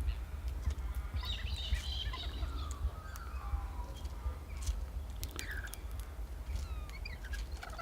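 Birds chirping and calling while feeding, with short warbling phrases and a few sharp ticks, over a steady low rumble.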